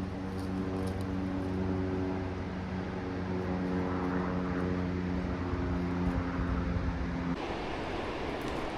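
A steady engine drone, a low even hum that cuts off abruptly about seven seconds in, leaving a rougher rushing noise.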